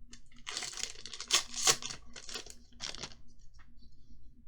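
Foil booster pack wrapper crinkling and tearing open, loudest about a second and a half in, followed by lighter rustling.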